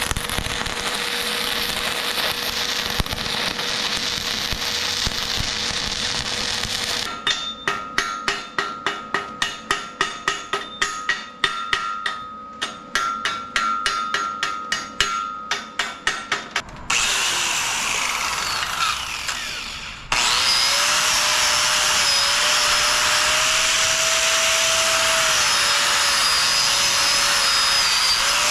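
Metalworking sounds. First a steady hiss, then about ten seconds of sharp rhythmic bursts, two or three a second, then a short hiss. From about twenty seconds in, an angle grinder runs steadily, its whine wavering as it bears on the steel.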